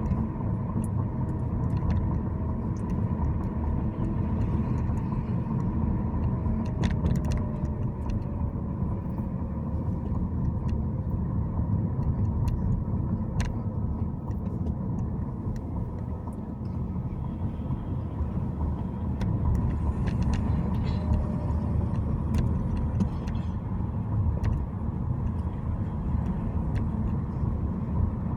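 A car driving, with a steady low rumble of road and engine noise. A few light clicks and faint whines that slide down in pitch come and go.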